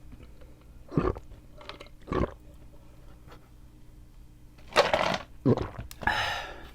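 Close-miked mouth sounds of someone drinking a watermelon drink: a few separate gulps or chews, then a louder cluster about five seconds in and a longer noisy mouth sound near the end.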